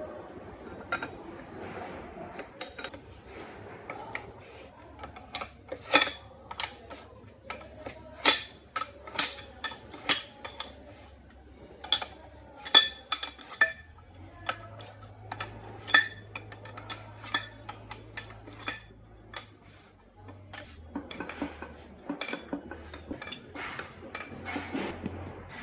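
Metal parts and tools clinking and clattering against each other during repair of an Ashok Leyland truck differential: many irregular sharp metallic clinks with a brief ring, busiest in the middle.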